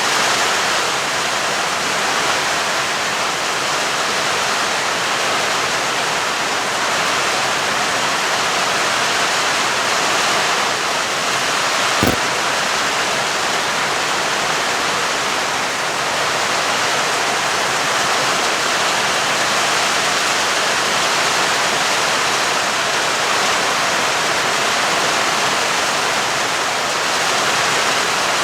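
Heavy rain falling in a steady, even hiss, with one sharp click about halfway through.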